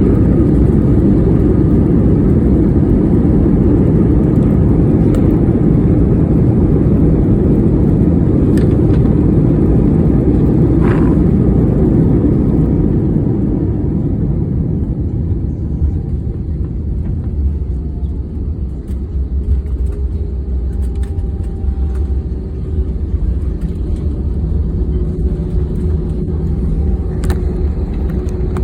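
Loud rumbling roar inside a jet airliner's cabin during landing, which eases off about halfway through to a quieter, steady engine hum as the plane slows.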